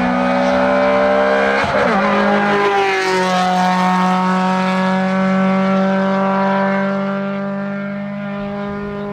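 Suzuki Swift Sport rally car passing at full throttle. Its engine note drops in pitch about two to three seconds in, then holds at steady high revs while slowly fading as the car draws away.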